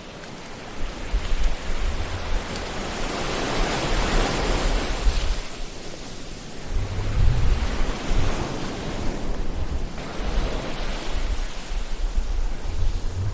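Ocean surf washing in and out. The noise swells and falls back every few seconds, with a low rumble as the bigger waves break, about a third of the way in and again near the end.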